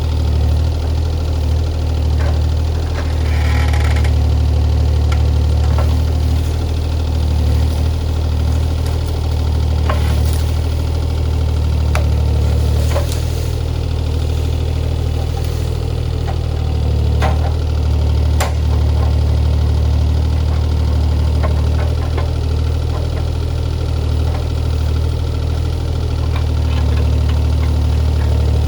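Diesel engine of compact earthmoving equipment running steadily at work, with scattered sharp knocks over its drone.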